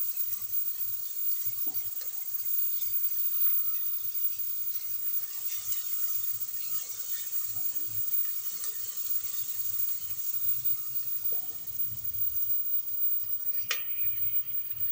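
Sliced onions and ginger-garlic paste sizzling steadily in hot ghee in a metal pot while being stirred with a spatula. A single sharp knock near the end.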